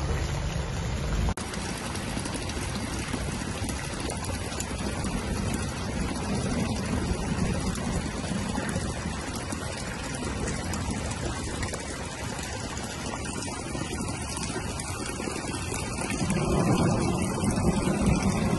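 Heavy rain falling on a flooded street, a steady hiss of drops hitting standing water. For about the first second a car is heard moving through the floodwater. A louder low rumble swells near the end.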